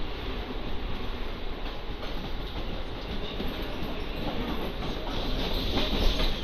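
Mumbai suburban local train running on the rails, heard from inside the coach: a steady rumble with rattling and clatter of wheels and carriage, growing louder near the end.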